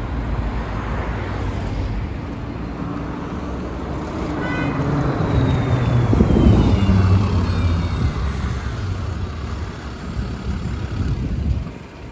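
Road traffic with a vehicle passing close: its engine rumble builds to a peak about six to seven seconds in, and a whine falls steadily in pitch as it goes by.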